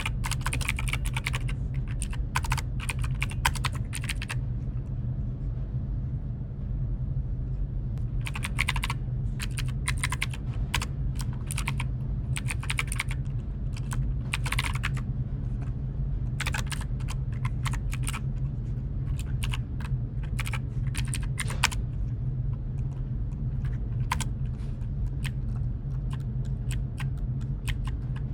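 Typing on a computer keyboard in bursts of keystrokes, with pauses of a few seconds between runs, over a steady low hum.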